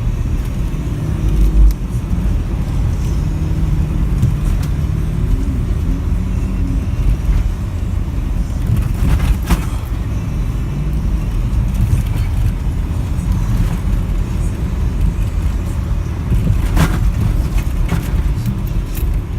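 SUV driving through deep fresh snow, a steady low rumble of engine and tyres, with a couple of sharp knocks partway through.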